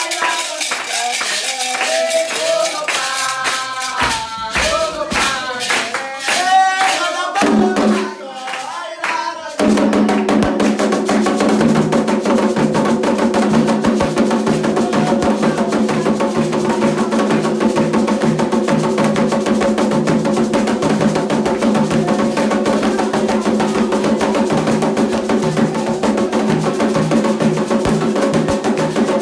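Candomblé ritual music: sung chanting with percussion, and from about ten seconds in steady, driving drumming with a clacking beat under the voices.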